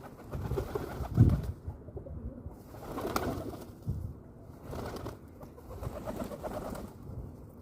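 Pigeons cooing in several low bouts, with a low thump about a second in.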